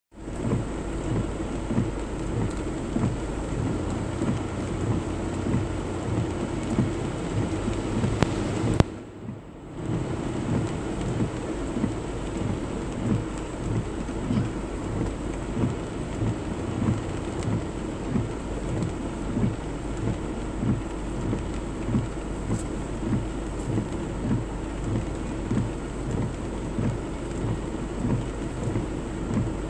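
Heavy rain and splashing water heard from inside a moving car, over a low rumble, with a regular low pulse about once a second. The sound drops away briefly about nine seconds in.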